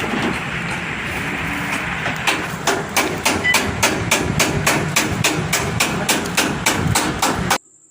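Hammer beating out a dent in a car's sheet-metal body panel, in rapid even strokes of about three a second that begin about two seconds in, after a steady hiss. The sound cuts off suddenly just before the end.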